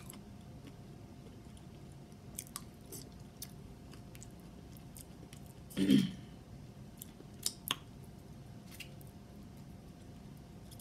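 Close-up mouth sounds of a person chewing green-lipped mussels: scattered wet clicks and smacks, with a short voiced "mm"-like sound about six seconds in.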